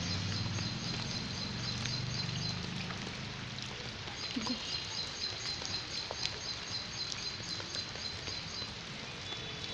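Light rain hissing steadily on a wet street. A low hum sits under it for the first few seconds, and faint light taps come through in the second half.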